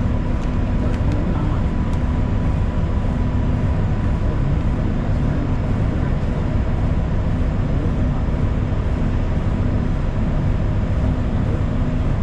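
Inside a moving city bus: a steady low rumble of engine and road noise as the bus drives along, with a faint hum that comes and goes.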